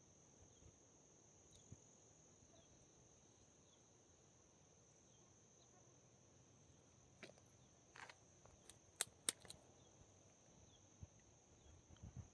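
Faint, steady high-pitched drone of insects in the woods, with a few sharp clicks or snaps from about seven to nine and a half seconds in.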